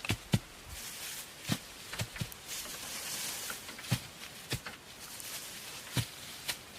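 Irregular short, sharp knocks and clicks, about nine of them, with a brief rustling hiss about three seconds in.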